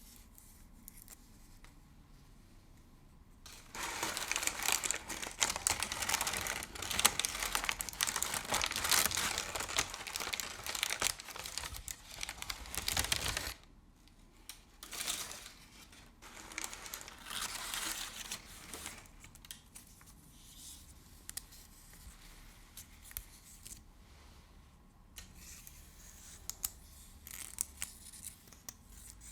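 Crinkly material crumpled and scrunched by hand, a dense crackling that starts about four seconds in and runs for roughly ten seconds. Shorter bursts follow, then only faint scattered ticks.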